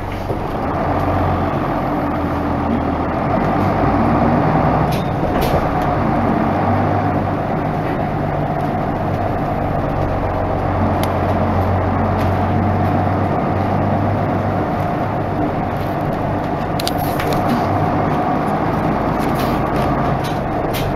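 Isuzu Erga Mio bus running, its diesel engine note holding steady with a few shifts in pitch, and occasional short clicks.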